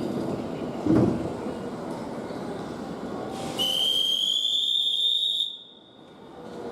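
A single high whistle blast lasting about two seconds. It rises slightly in pitch and stops abruptly, over the rumble of trains at a station platform, with a thump about a second in.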